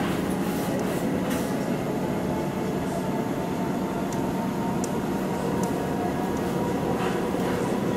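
Electric suburban train running at speed, heard from inside the carriage: a steady rumble of wheels on the rails with a faint steady whine.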